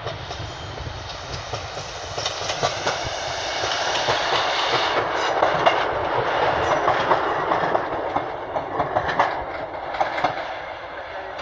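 Class 156 diesel multiple unit pulling out of the station, its wheels clicking irregularly over rail joints and pointwork over a steady running rumble. It is loudest around the middle and eases toward the end.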